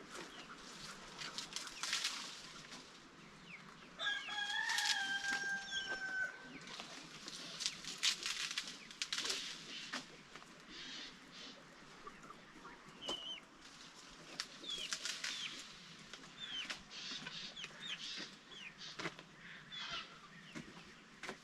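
Chickens clucking and moving about, with one long rooster crow about four seconds in. Short clicks, scuffles and brief high calls run through the rest.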